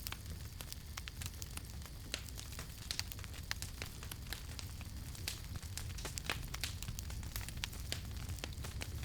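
Wood fire crackling, with frequent sharp, irregular pops and snaps over a low steady rumble of burning.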